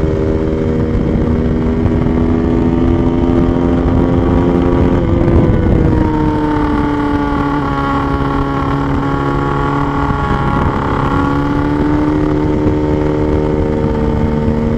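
Motorcycle engine running under steady load, its note holding, then dropping to a lower pitch about five seconds in and shifting again around ten seconds in.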